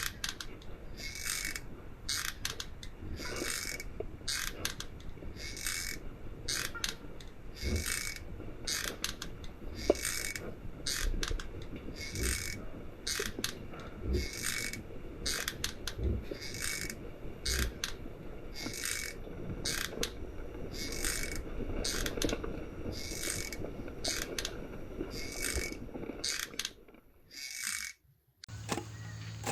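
A rhythmic ratcheting rasp, with short high pulses repeating about one and a half times a second over a low rumble and occasional knocks. It cuts off abruptly near the end.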